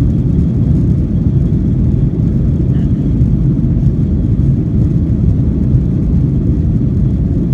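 Boeing 737-800 heard from inside the passenger cabin during its takeoff roll: its CFM56-7B turbofan engines at takeoff thrust make a loud, steady, deep roar.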